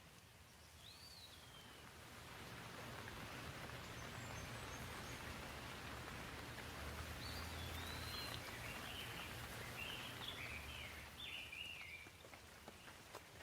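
Gentle rain falling with a steady hiss that swells through the middle seconds and eases near the end. A bird chirps once about a second in, and a run of short bird calls follows in the middle.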